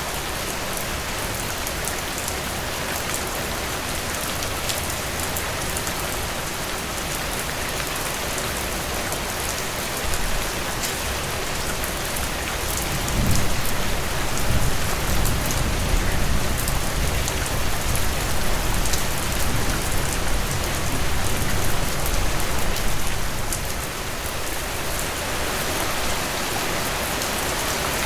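Heavy rain pouring steadily, a dense even hiss of drops. About halfway through, a low rumble swells for several seconds and then fades.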